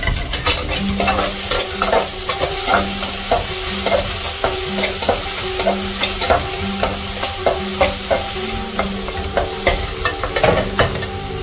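Onion paste frying in a little oil in a kadhai with a steady sizzle, while a spoon stirs it and knocks and scrapes against the pan about two or three times a second.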